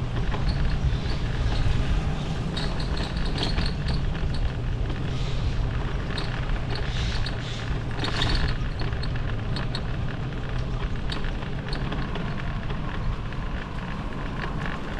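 Steady low wind rumble on the microphone and road noise from a bicycle being ridden, with scattered light clicks and rattles.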